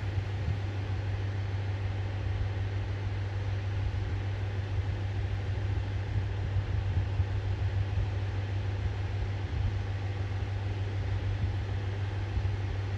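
Diesel railcar engine idling steadily, a constant low hum.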